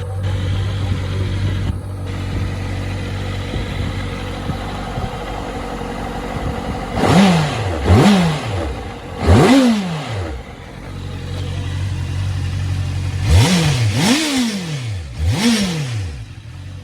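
Honda CBR650F's inline-four engine idling, then revved in quick blips: three about seven seconds in and three more about thirteen seconds in, each rising and falling straight back to idle.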